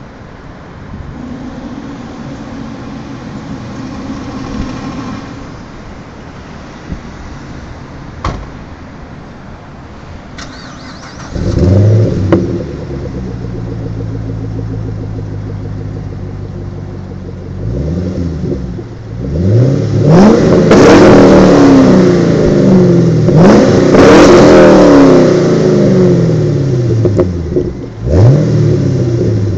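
A 2010 Chevrolet Camaro SS's 6.2-litre V8 through a Magnaflow cat-back exhaust, started about a third of the way in with a loud flare before settling to idle. In the second half it is revved repeatedly, the engine note rising and falling with each rev.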